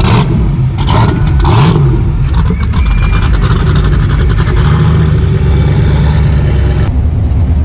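A car engine running loudly, revving briefly about a second and a half in, then holding a steadier note.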